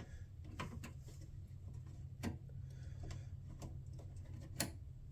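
Small plastic trim clips being worked loose and handled, a scattered run of light, irregular clicks and ticks, the loudest near the end, over a steady low hum.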